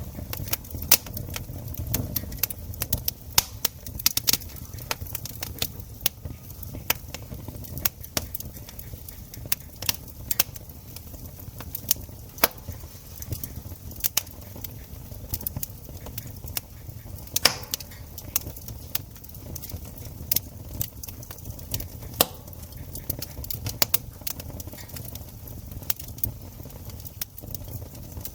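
Campfire crackling and popping: irregular sharp pops of burning wood, several a second, over a steady low rumble.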